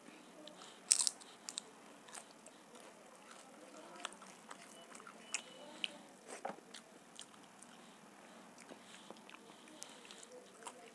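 A bite into crisp fried papad crunches loudly about a second in, followed by close-up chewing with scattered small crunches and mouth clicks.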